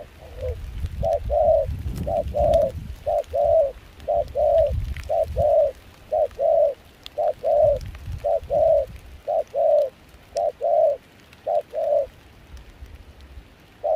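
Spotted dove cooing in a steady run of short two-note phrases, about one phrase a second. It is a decoy bird calling.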